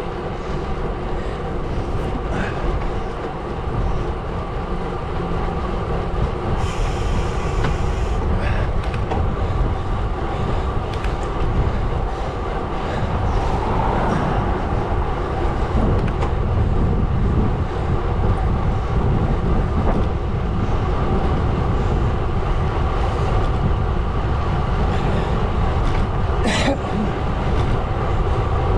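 Steady rolling rumble of a gravel bike ridden at speed, with a low hum holding a few steady tones and wind rumbling on the microphone. A single sharp click comes near the end.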